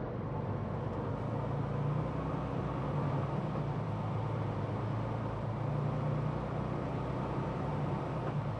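Tractor-trailer's diesel engine running steadily with a low hum and road noise while the truck drives.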